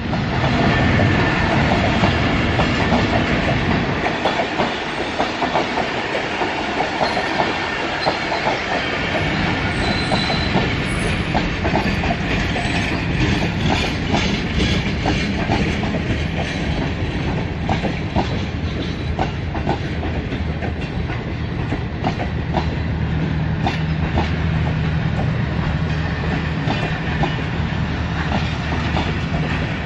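Pakistan Railways passenger coaches rolling past, their wheels clattering over the rail joints in a steady clickety-clack over a continuous rumble.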